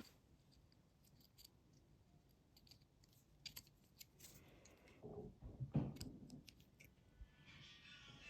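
Faint, scattered small clicks, with a brief louder scraping rustle about five to six seconds in: small handling noises, as of hands working on a small object.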